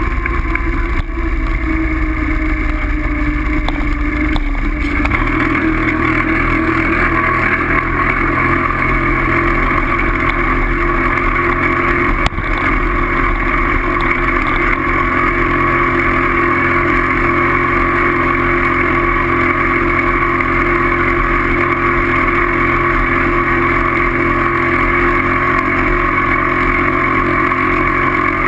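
A loud, steady motor drone with a low rumble that changes about five seconds in.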